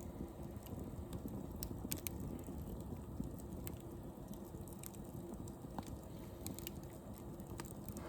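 Campfire crackling, with a few sharp pops scattered through it over a low steady rumble.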